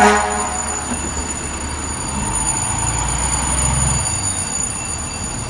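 A short air horn blast at the very start, then the steady low rumble of a fire apparatus's heavy engine, swelling around three to four seconds in.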